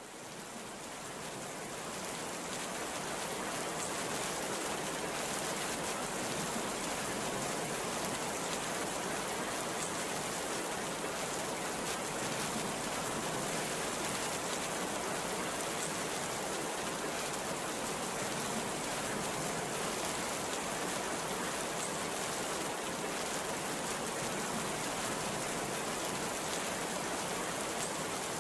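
Heavy rain pouring steadily, a dense even hiss. It swells in over the first few seconds, then holds level with no thunder claps.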